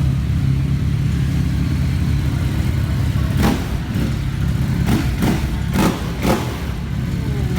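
Motorcycle engine running at low speed, with about five short sharp thumps or blips roughly three to six seconds in.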